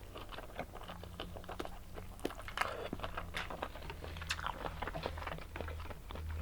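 A person chewing and eating lobster tail, with many small irregular clicks and smacks of the mouth.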